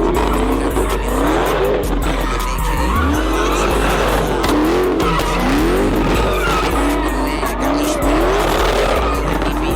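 Car engine revving up and down over and over, about once a second, with tyres squealing and skidding: a car being drifted.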